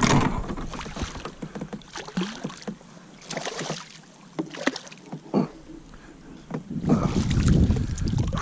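Scattered splashes and knocks in and around a kayak as a smallmouth bass is landed and handled, with a louder rush of noise near the end.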